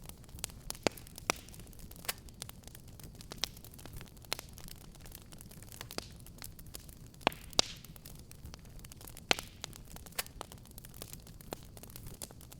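Wood fire in a fireplace crackling: scattered sharp pops and snaps, two of the loudest close together a little past the middle, over a low steady rumble.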